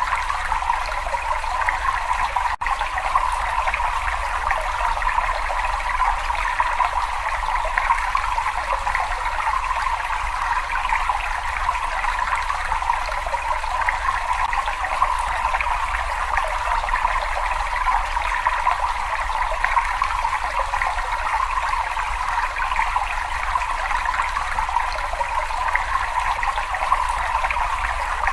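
Running water flowing continuously, a steady, even rush with no change in pace, broken only by a very brief dropout about two and a half seconds in.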